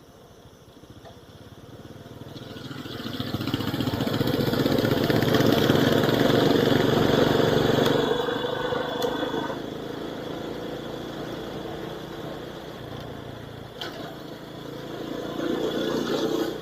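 Vehicle engine and road noise picked up by an action camera's internal microphone. The engine builds up over several seconds, then eases off sharply about halfway through to a steadier, quieter running sound.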